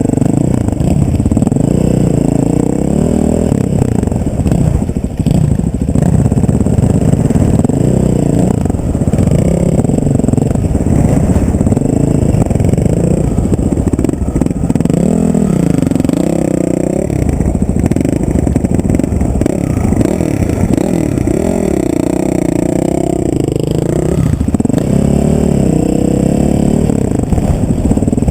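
Motor vehicle engine running continuously with a loud low rumble, its pitch rising and falling now and then as it speeds up and slows down.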